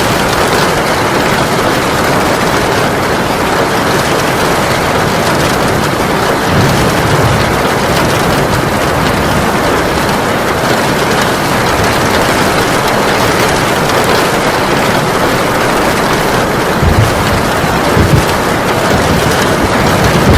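Heavy rain falling steadily as an even hiss. Brief low rumbles of thunder come twice, about a third of the way in and again near the end.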